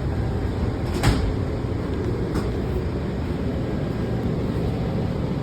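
Washington Metro railcar's steady low rumble at a station stop, with one sharp thud about a second in and a fainter knock about a second later.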